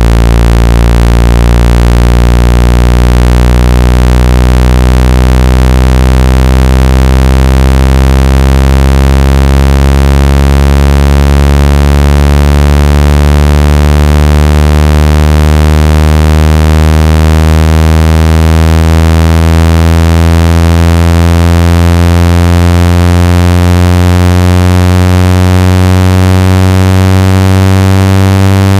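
Synthesized low buzzing tone with many overtones, slowly gliding upward in pitch: a water-ejection tone played through a phone speaker to vibrate trapped water out.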